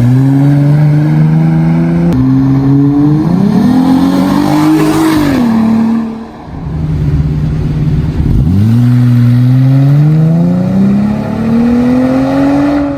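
Jeep Wrangler JL fitted with an aFe Power MACH Force-Xp 2.5-inch exhaust, the engine revving up and falling back several times. Its pitch drops suddenly about two seconds in and climbs steadily through the last few seconds.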